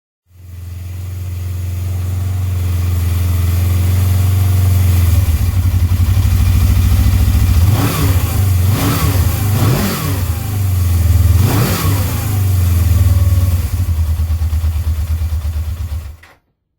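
Suzuki GS500E motorcycle's parallel-twin engine idling, then revved up twice with the throttle and let fall back to idle. It cuts off abruptly near the end.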